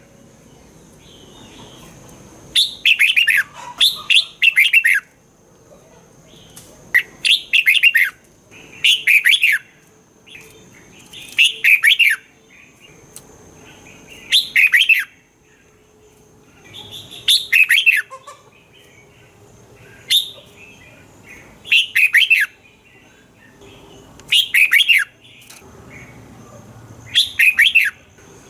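Red-whiskered bulbul singing: short, loud phrases of quick falling whistled notes, often in pairs, repeated every two to three seconds.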